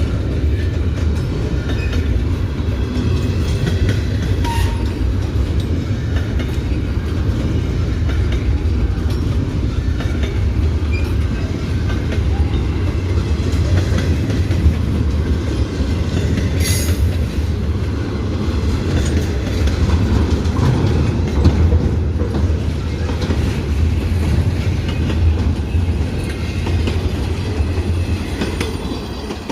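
Intermodal freight train passing close by: a loud, steady rumble of wheels on rail with scattered clicks, easing slightly near the end.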